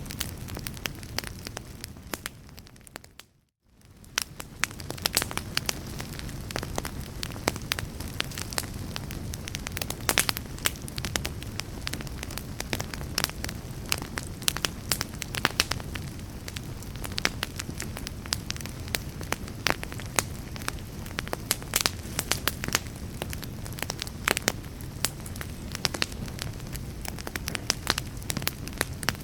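Wood fire in a fireplace crackling, with frequent sharp pops over a low, steady rumble of flames. About three seconds in, the sound fades away to near silence and then fades back up within a second or two.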